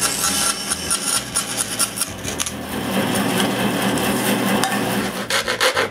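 Bandsaw cutting a curve through plywood, with a steady rasping cutting noise.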